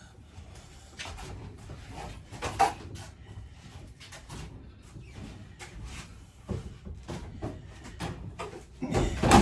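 Scattered knocks and clunks of RV interior fittings being pulled out and handled during a teardown. There is a sharp knock about two and a half seconds in and a louder cluster of knocks near the end.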